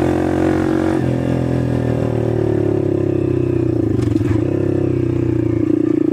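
Dirt bike engine running under throttle, the revs dropping and picking back up about a second in and again around four seconds in.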